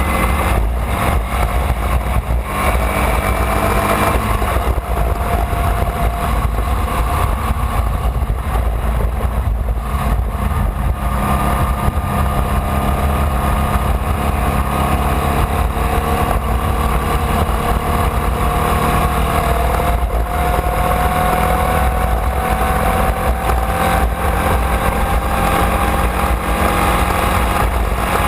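Onboard sound of a Formula Vee race car's air-cooled Volkswagen flat-four engine running hard at speed, its note climbing slowly and steadily over many seconds as the car accelerates in gear. Heavy wind and road rumble lie underneath.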